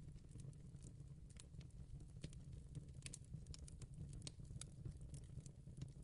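Fireplace crackling faintly: irregular sharp pops and snaps over a low steady rumble.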